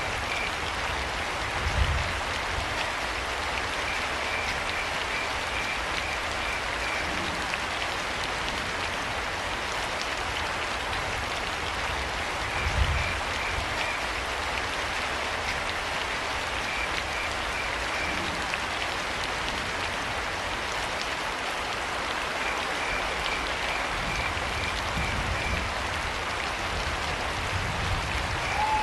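Steady rain falling, with crickets chirping in intermittent trains of short, evenly spaced pulses. Two low thumps stand out about 2 and 13 seconds in.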